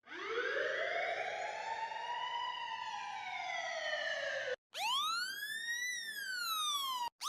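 Siren wails from two different sirens, one after the other. The first is one long wail that climbs quickly and then falls slowly. After a sudden cut, a second, clearer siren rises and falls more sharply, and it cuts off just before a third wail starts.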